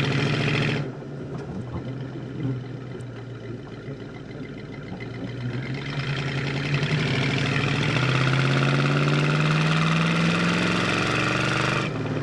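1971 Plymouth Road Runner's 383 big-block V8 running under way through dual exhaust. Its revs climb steadily through the second half as it accelerates, then drop off near the end.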